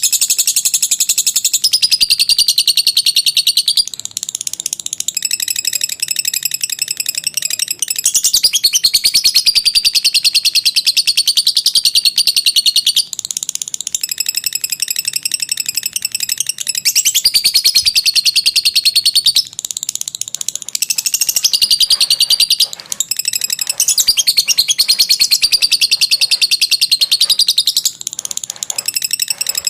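Lovebird singing a long 'ngekek': a very rapid, high-pitched chattering trill in runs of several seconds, broken by short pauses.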